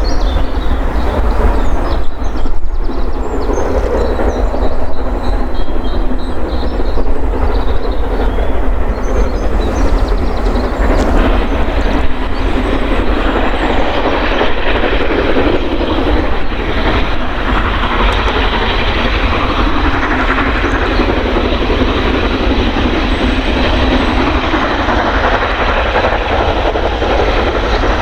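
Steam-hauled train passing on the line, a steady rumble of wheels over the rail joints that grows fuller from about eleven seconds in.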